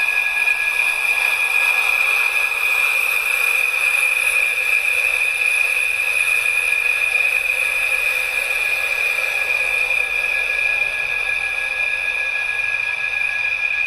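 Steady high-pitched whine over a rushing hiss, typical of a jet fighter's engines running on the ground.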